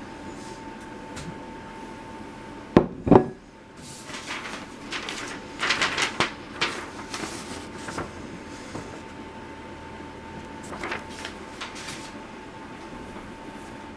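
Two sharp knocks close together about three seconds in, followed by irregular rustling and clattering, like objects being handled, over a faint steady high hum.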